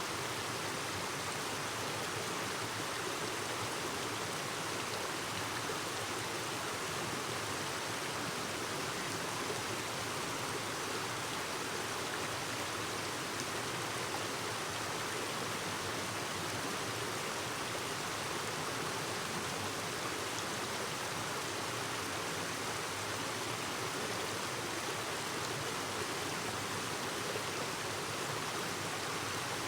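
Clear stream running over rocks: a steady babbling rush of water that does not change.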